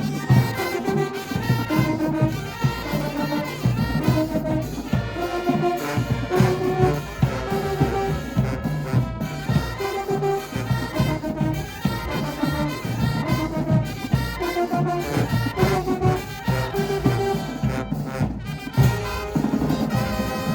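High school marching band playing: brass horns carry a melody over a busy, steady drum beat.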